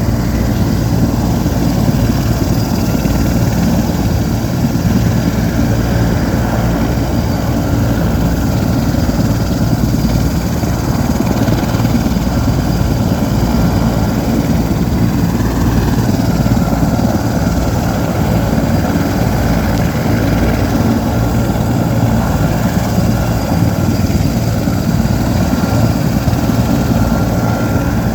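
Sikorsky S-64 Skycrane heavy-lift helicopter running steadily: a thin, steady turbine whine over the rotor's low, fast beat.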